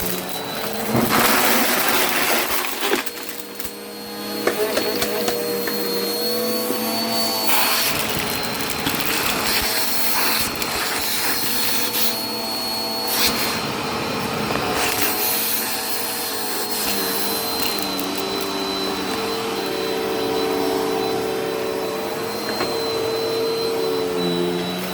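Vacuum cleaner running with a steady high whine, sucking up crunchy debris that crackles and rattles through the nozzle; the motor's pitch wavers now and then as the suction is loaded.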